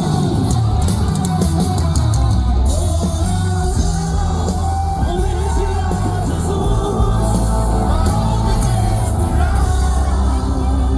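Live band playing gospel music with a singing voice over heavy, steady bass, and a run of sharp hits in the first few seconds.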